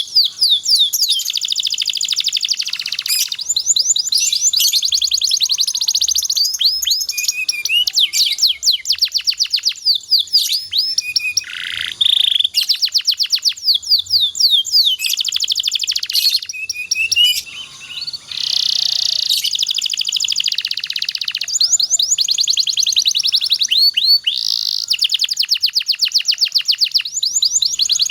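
Domestic canary singing a long, high-pitched song of fast rolling trills, rapidly repeated notes run together with only short breaks.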